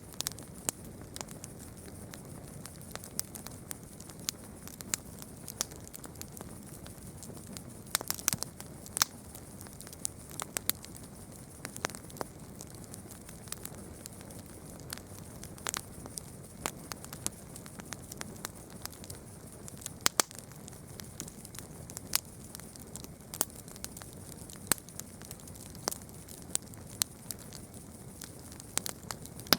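Campfire burning, wood crackling with irregular sharp pops and snaps over a low steady hiss of the flames, with small clusters of louder pops about eight seconds and twenty seconds in.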